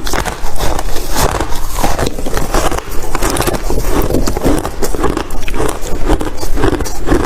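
Ice crunching close up: a loud, dense run of cracks and crackles that swells and eases in a loose rhythm about once a second.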